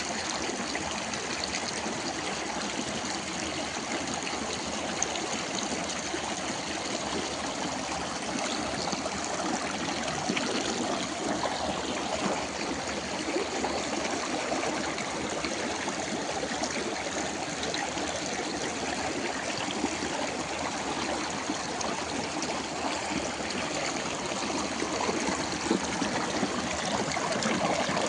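Running water of a small stream, a steady flow that grows slightly louder near the end.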